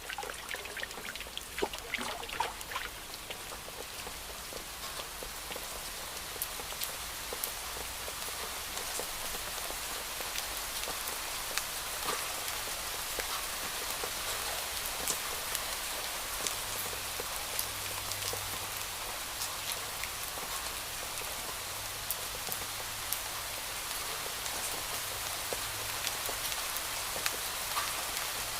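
Steady rain falling, many separate drops ticking close by over an even hiss of rain.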